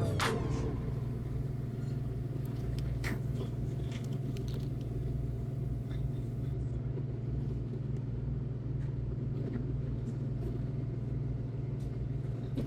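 Steady low rumble of an Amtrak passenger train in motion, heard from inside the car, with a few faint clicks about three seconds in.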